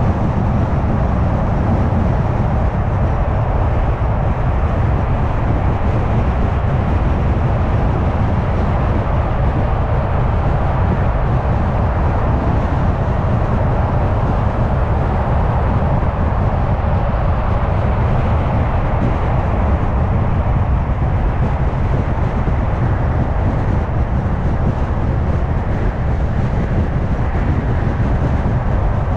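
Steady road and tyre noise with a low rumble from a car cruising at highway speed, unchanging throughout.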